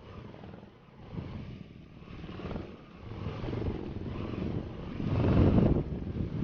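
Motorcycle running with a rough, noisy rumble, swelling to its loudest about five seconds in.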